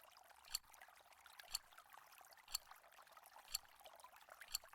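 Countdown timer sound effect ticking evenly, one sharp tick a second, five ticks in all, over a faint steady hiss.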